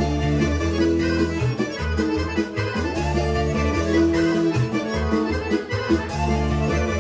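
Instrumental Serbian kolo folk-dance medley played by a band with violin, at a lively steady beat.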